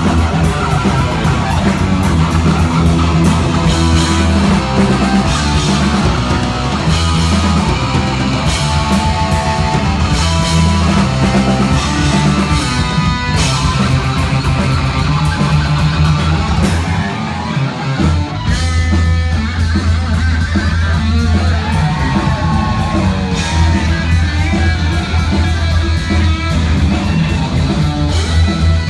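Heavy metal band playing an instrumental live at high volume: distorted electric guitar over bass and drum kit. The sound drops briefly a little past halfway, then the full band comes back in.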